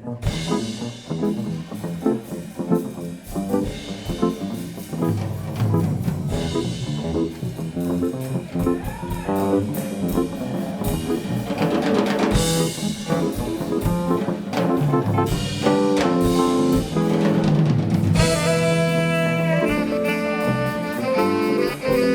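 Live jazz band playing a groove with drum kit, bass and guitar. Sustained horn notes come in about eighteen seconds in.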